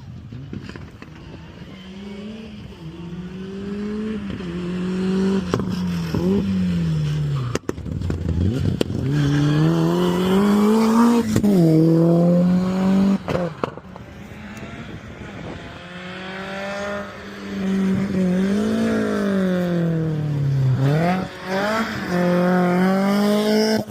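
Rally car engines accelerating hard, the pitch climbing and then dropping at each gear change, over and over as the cars drive by. There are a few sharp cracks in between.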